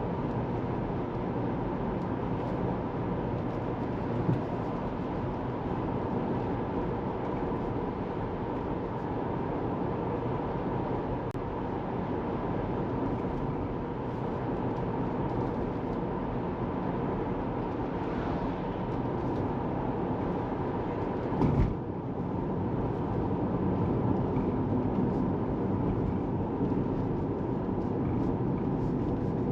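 Steady road and tyre noise from a moving Tesla Model 3, an electric car with no engine note, with a single thump from a bump in the road about two thirds of the way through.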